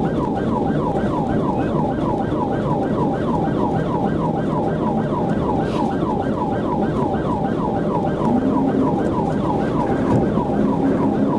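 Police car siren in rapid yelp mode, about four quick falling sweeps a second, over the steady noise of the engine and road during a high-speed pursuit.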